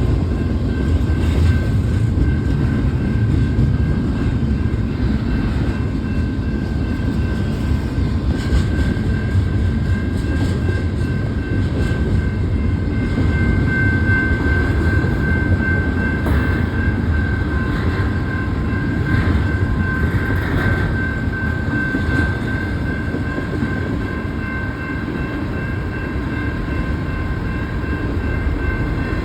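Cars of a long double-stack container freight train rolling past with a steady, loud rumble. A thin, steady high-pitched whine from the wheels runs over it.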